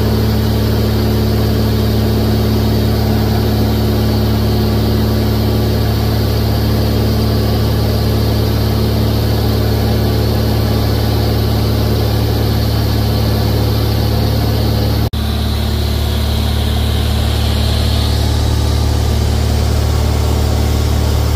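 Cessna 172's piston engine and propeller droning steadily, heard inside the cockpit with rushing air noise, broken off for an instant about fifteen seconds in.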